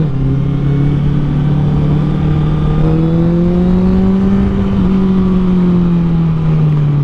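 2013 Honda CBR1000RR Fireblade's inline-four engine through an aftermarket Taylormade exhaust, running under load while riding, its pitch climbing steadily for about four seconds, dipping slightly near five seconds in, then easing lower.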